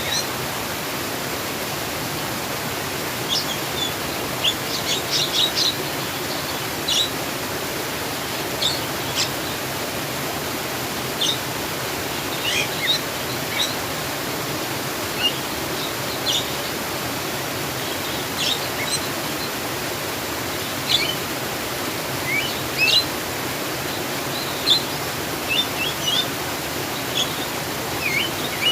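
Steady sound of flowing water, with small birds chirping in short, high calls scattered through it, some in quick little runs.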